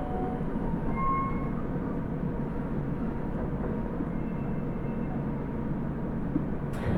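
Osaka Metro 30000 series subway train running, heard from inside the car: a steady rumble of wheels and running gear, with a brief high tone about a second in and a sharp click near the end.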